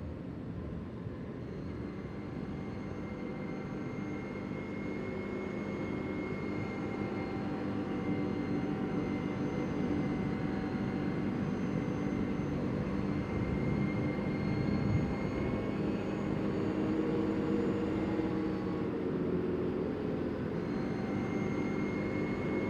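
CFMoto CForce 800 ATV's V-twin engine running under way at a steady cruising pace, gradually getting louder over the first several seconds and then holding an even drone.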